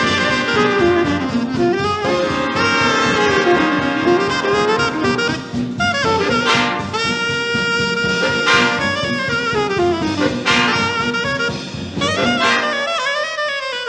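Fast instrumental swing jazz: saxophones and brass play melodic lines over a driving drum-kit beat, with no vocals.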